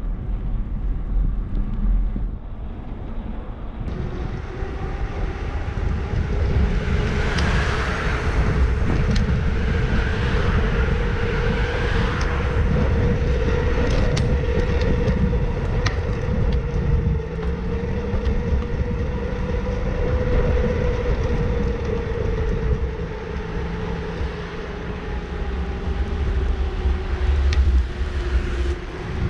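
Wind rumbling on the microphone and road noise while riding a bicycle on city streets, with a steady hum that drifts slightly in pitch through most of the stretch.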